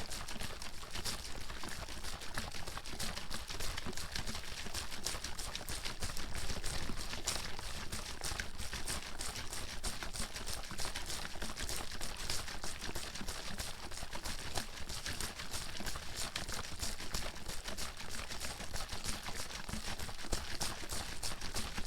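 A water bottle being shaken hard and continuously, the water sloshing and splashing inside in a fast, even rhythm.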